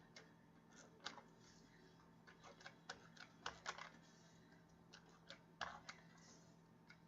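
Faint, irregular light clicks and taps of tape being applied to cardstock and the pieces being handled.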